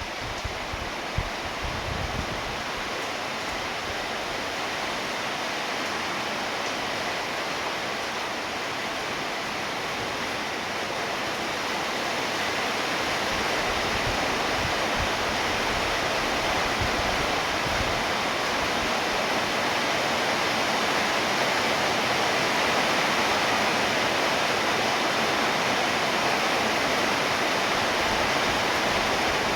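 Steady rainfall: a dense, even hiss of falling rain that grows heavier about halfway through, with a few low thumps near the start.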